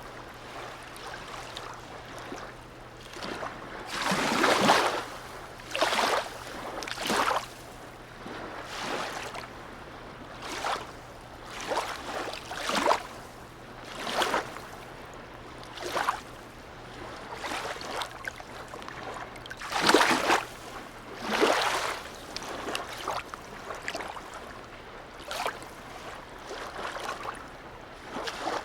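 Harbour water lapping in short, irregular splashes every second or two, over a faint steady low hum.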